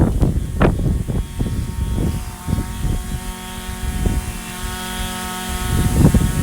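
Echo SRM-2620 string trimmer's two-stroke engine running, a steady tone through the middle, getting louder about six seconds in, with rough gusty noise over it.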